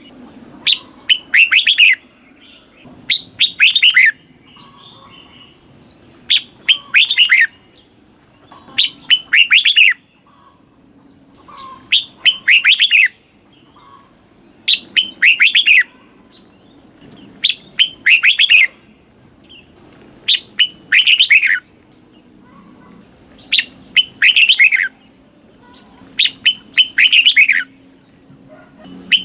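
Red-whiskered bulbul singing: short, bright phrases of quick falling notes, repeated every two to three seconds.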